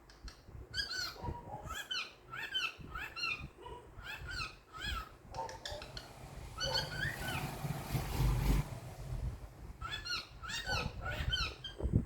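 Pet cockatiel whistling phrases of short, arching notes in quick runs, pausing between phrases. A rustling noise with a low thump comes in about two-thirds of the way through.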